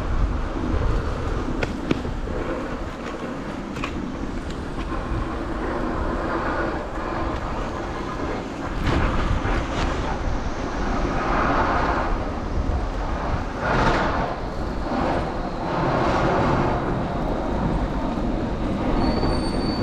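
Vehicle traffic passing on a street: a steady low rumble with several passing swells of louder noise, and a brief thin high-pitched squeal near the end.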